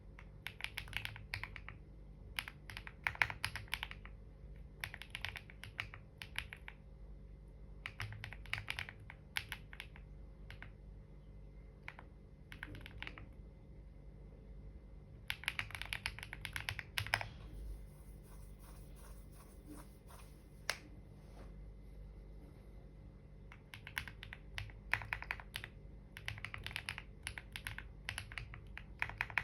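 Typing on a computer keyboard: bursts of rapid keystrokes a few seconds long, broken by pauses, with a few single key taps in between.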